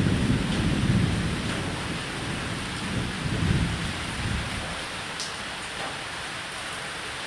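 Steady rain falling on a roof, with low rolling thunder rumbling through it twice: in the first second or so and again about three to four seconds in.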